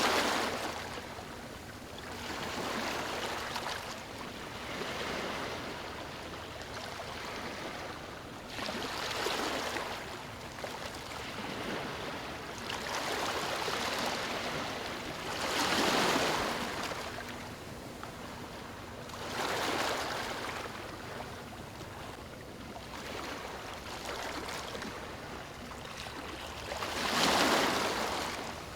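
Waves washing onto a beach: a steady rush of water that swells and fades every few seconds, with the biggest surges a little past the middle and near the end.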